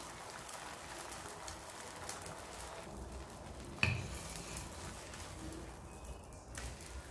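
Egg and luncheon meat frying in hot oil in a pan, a low steady sizzle with fine crackles. A single sharp clink about four seconds in.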